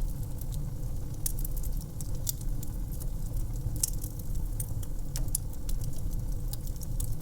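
Wood fire in an outdoor fireplace crackling, with frequent sharp irregular pops and snaps over a steady low rumble.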